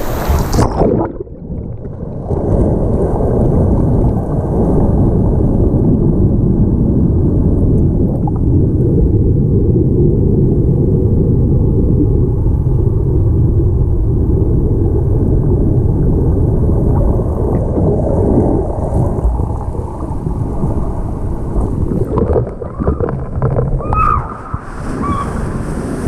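Dull, muffled rush and rumble of churning water heard from underwater in a waterfall pool. The sound goes dull suddenly about a second in, as the camera goes under, and stays that way until near the end, when the open-air hiss of the falls comes back.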